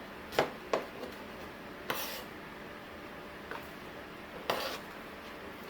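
Kitchen knife knocking on a chopping board twice in quick succession, then a couple of short scraping clatters of the knife and board.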